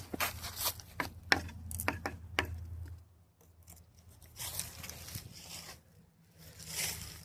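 Footsteps crunching on dry leaf litter and twigs, with sharp irregular snaps and crackles over the first few seconds, then softer rustling.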